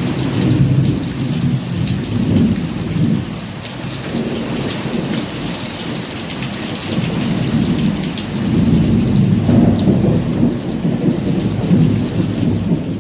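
Heavy rain falling steadily, a continuous hiss flecked with individual drops, over a low rolling rumble that swells and fades in waves and is loudest in the second half.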